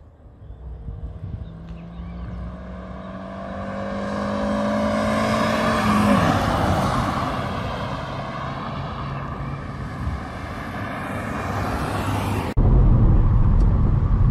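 Two Volkswagen Saveiro pickups accelerating hard towards and past the roadside. Their engine note rises steadily in pitch and loudness, drops at a gear change about six seconds in, and is joined by rising tyre and wind noise. Near the end it cuts suddenly to a louder, low engine and road rumble heard inside a cab.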